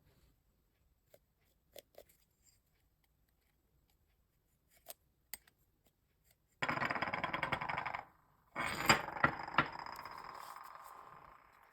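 Rapid mechanical rattling, like gear teeth clattering, from a hand drill's geared mechanism. It comes in two bursts: a short one about six and a half seconds in, and a second with a few sharp knocks that then fades away over about three seconds. Before that there are only a few faint clicks.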